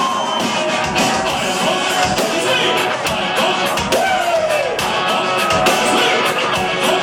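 Rock band playing live and loud, a singer over electric guitars and drums.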